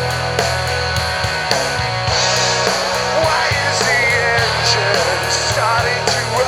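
Rock band recording playing at full volume: distorted electric guitar over bass and drums with a steady beat.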